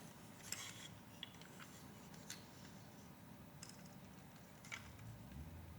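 Near silence broken by a few faint, scattered clicks of plastic Lego pieces being handled.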